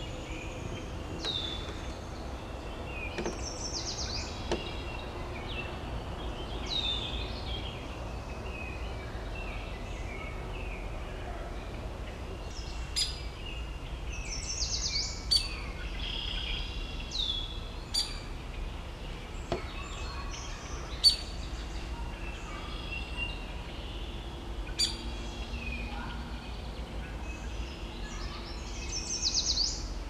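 Wild birds calling in leafy woodland: repeated high whistled notes that sweep downward, and scattered sharp single chips, over a steady low rumble.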